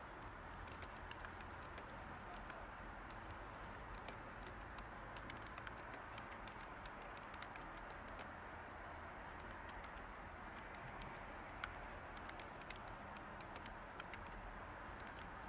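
Steady white-noise hiss with light computer-keyboard typing over it: scattered, irregular soft key clicks.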